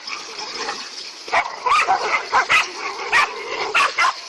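A dog barking and yelping in short, loud calls that come about every half second.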